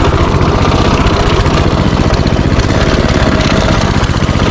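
Minibike's small engine running steadily at a constant speed, a loud, even low pulsing with no revving.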